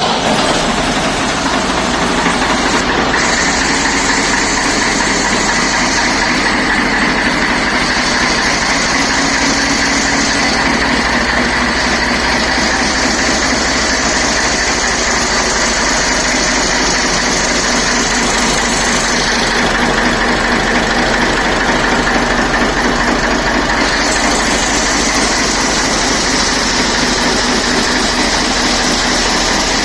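Ford 3600 tractor's three-cylinder engine running steadily at idle.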